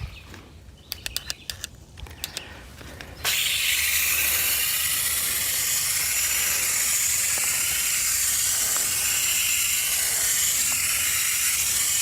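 Water spraying from a hose nozzle onto a wheel, rinsing it clean: a steady hiss that starts about three seconds in. Before it, a few scattered clicks and taps.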